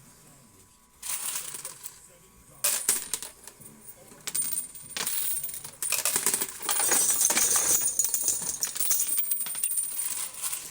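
Quarters clinking and clattering in a coin pusher game. A few separate drops come in the first seconds, then a steady run of clinking from about six seconds in.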